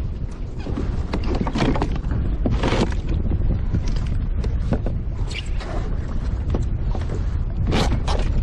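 Wind buffeting the microphone and water moving around a kayak hull, with a few short sharp noises from water and handling on the boat.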